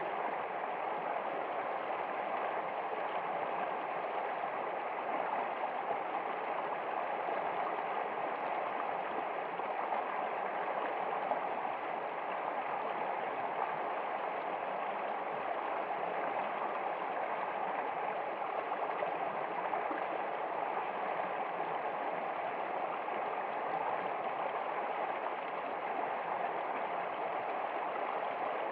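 Steady, even rush of flowing stream water, unchanging throughout.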